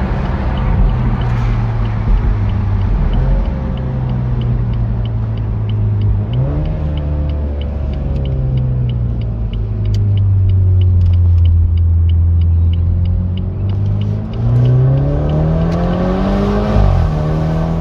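BMW 430i convertible's turbocharged four-cylinder engine and exhaust under acceleration: the engine note climbs briefly about six seconds in, settles and sags, then rises steadily for about three seconds near the end before dropping off sharply. A faint, regular ticking runs under it for most of the time.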